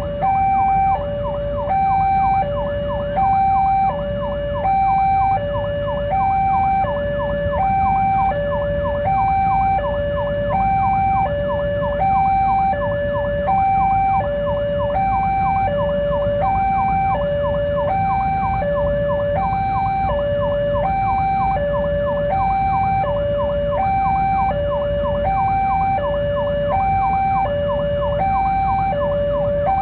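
Railway level crossing warning alarm sounding its two-note signal, high and low notes alternating about every three-quarters of a second, over a continuous low rumble.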